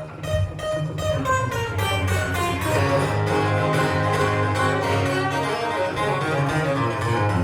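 Guitar music: plucked and strummed guitar notes played in a quick run, with no singing.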